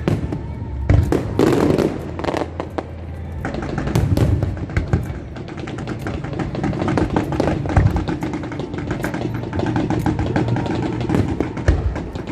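Fireworks going off, with a few deep booms and many sharp crackles, mixed with loud music.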